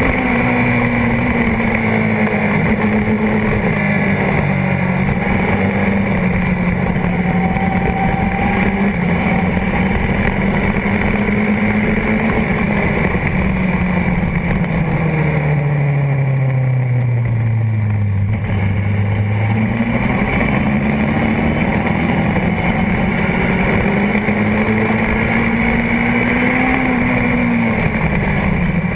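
Honda CBR600RR's inline-four engine at race pace, with wind rush. The engine note sags slightly, falls steeply for a few seconds as the bike slows around the middle, climbs back up as it accelerates again, and drops sharply right at the end.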